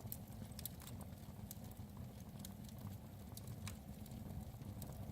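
Fire log burning in a fireplace, crackling with scattered, irregular pops over a steady low rumble.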